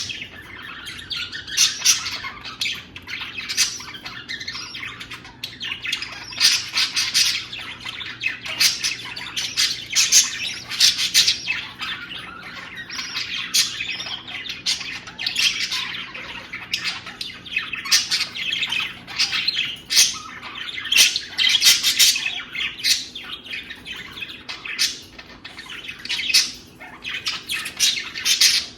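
Budgerigars chattering and squawking: a continuous run of short, high chirps and squawks.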